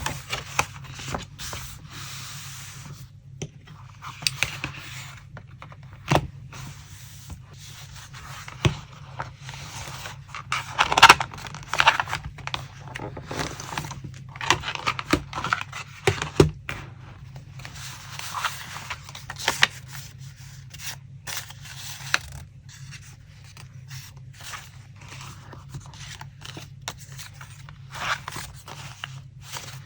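Paper and craft materials handled on a desk during collage work: irregular scraping and rustling of paper with a few sharp taps, over a low steady hum.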